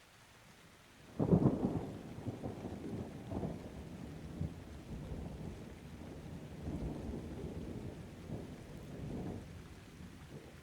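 A thunderclap breaks in suddenly about a second in, then rolls on as a long, low rumble with several further cracks, fading near the end. Light rain hisses steadily underneath.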